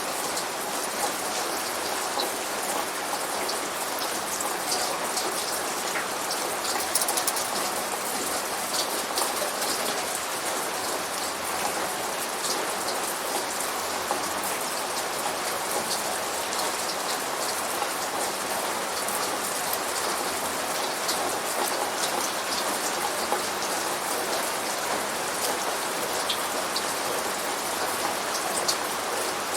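Steady rain: an even hiss with many close drops ticking throughout, the rain sound of the Rainforest Cafe.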